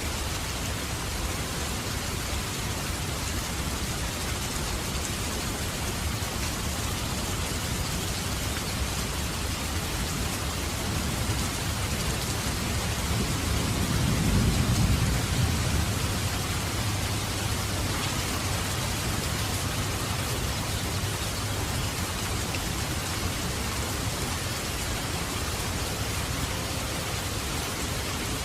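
Heavy rain falling steadily, a dense, even hiss of raindrops on surfaces. About halfway through, a low rumble swells and fades.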